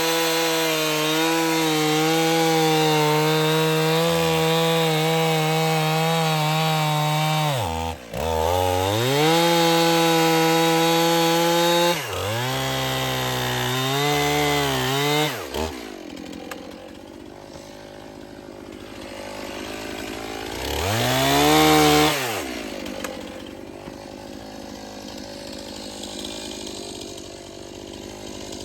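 Gas chainsaw cutting logs at full throttle, its pitch dipping and recovering twice as the chain loads in the wood, then dropping to a low idle about halfway through, with one short rev of the throttle before idling to the end.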